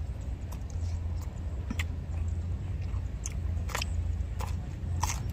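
A person chewing and smacking on roast pork ribs and rice close to the microphone, with short wet clicks every half second or so over a steady low hum.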